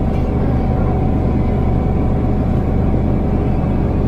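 MTR Disneyland Resort Line M-Train running at speed, heard from inside the car: a steady rumble of wheels on rail with a low hum underneath.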